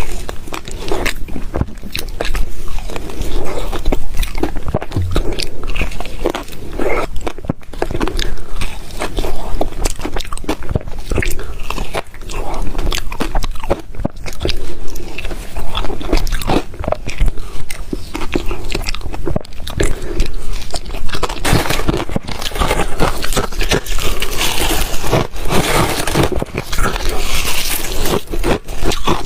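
A person biting and chewing ice, with loud, rapid, irregular crunching and cracking close to the microphone.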